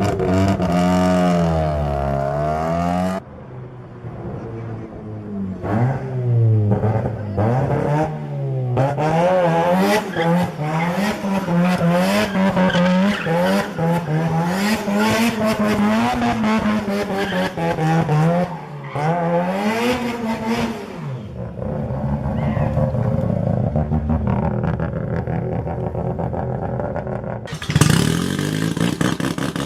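Modified Mazda rotary engines being revved and driven hard, their pitch climbing and dropping again and again, cut abruptly from one car to the next a few times.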